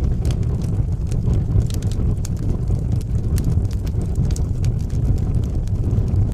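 Fire burning in a fireplace, crackling with many small sharp pops over a steady low rumble.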